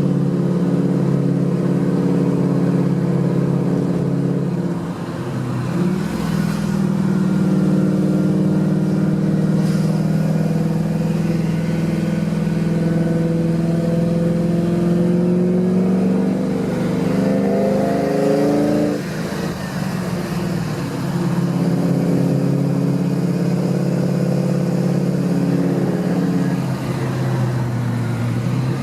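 Cammed Holden VX Commodore SS's 5.7-litre LS1 V8 pulling under load. Its note climbs steadily for several seconds, then drops suddenly as it changes gear about nineteen seconds in, with a brief dip and change near five seconds. The owner likens the sound to a Mack truck.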